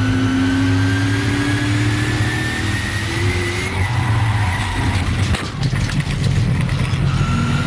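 Racing car engines running hard, the pitch climbing slowly as they accelerate. The sound breaks off about four seconds in, and another engine note starts climbing near the end.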